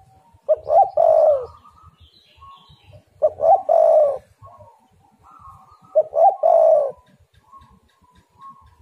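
Spotted dove cooing: three phrases, each a few quick short notes running into a longer falling coo, repeated about every two and a half to three seconds. Faint higher chirps are heard between the phrases.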